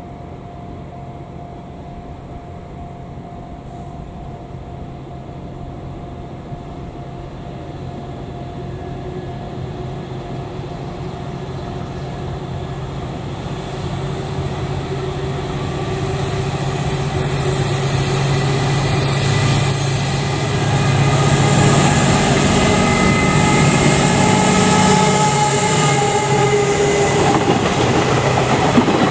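A freight train approaches and passes: the locomotive's motors hum over the noise of wheels on the rails, growing steadily louder for about twenty seconds. Near the end, with high wheel squeal, the hum tones drop in pitch as it passes close.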